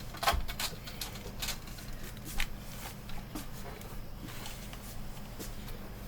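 Scattered light clicks and taps from hands handling the plastic and metal parts of a disassembled monitor, a few separate knocks spread over the seconds, over a steady low hum.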